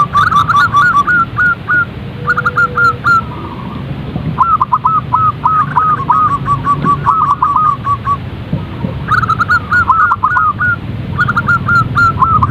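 Zebra dove calling: repeated bouts of rapid, staccato cooing notes, each phrase a quick string of short hooked notes, with brief pauses between bouts.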